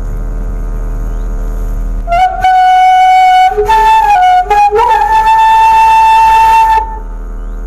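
Bamboo suling flute played by a beginner: after about two seconds of only a low hum, a phrase of several notes, a few short pitch changes and then a long held higher note, which stops shortly before the end.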